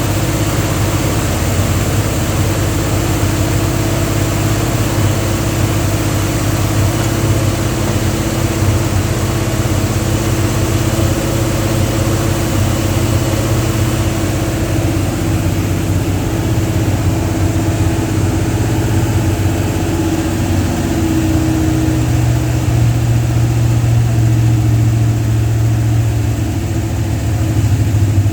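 Carbureted 360 Mopar LA small-block V8 running steadily at a raised idle, its note shifting somewhat in the second half. The engine will not settle to a normal idle, behaving like it has a serious vacuum leak that the owner suspects is at the intake or carburetor gasket.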